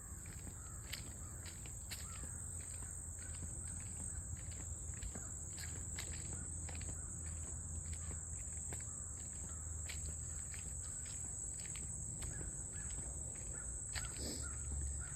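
Outdoor ambience with a steady, high-pitched drone of insects and soft ticks about twice a second from footsteps on a walking path.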